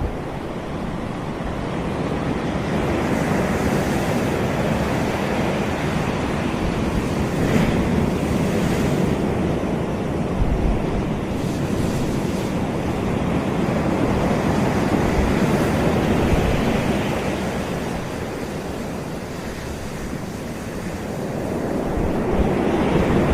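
Sea waves washing onto a beach, a continuous rush that swells and eases slowly, dipping a little about two-thirds of the way through and building again near the end.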